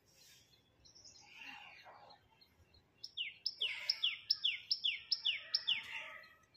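A bird calling outdoors: about three seconds in, a fast run of about eight sharp, downward-slurred call notes, a little over two a second, with fainter chirps before it.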